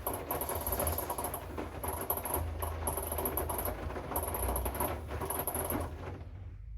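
Hoover washing machine mid-wash: the drum turning, with laundry and water pattering and a low motor hum. It winds down and goes quiet about six seconds in, as the drum pauses between tumbles.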